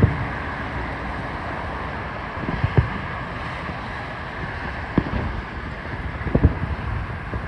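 Fireworks shells bursting: a handful of short low booms a second or two apart, some in quick pairs, over steady wind noise on the microphone.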